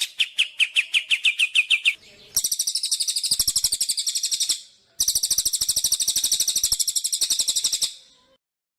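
Songbird singing rapid, evenly repeated trills of about ten notes a second. The first trill falls slightly in pitch and ends about two seconds in. Two higher, harsher trills follow with a short break between them, stopping near the end.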